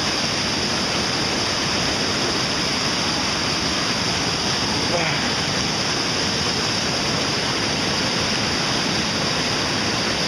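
River rapids: whitewater rushing steadily and loudly over rocks.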